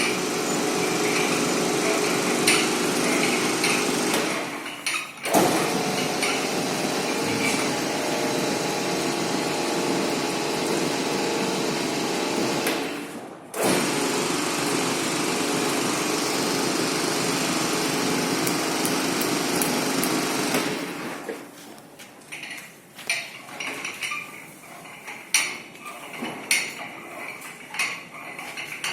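Truck loading conveyor for sacks running with a steady mechanical noise that briefly cuts out twice, then stops about two-thirds of the way through, leaving scattered knocks and clatter.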